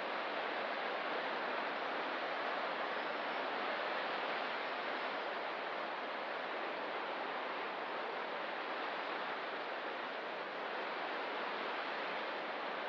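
Ocean surf washing steadily against the coast, an even hiss with no single wave breaking out from it.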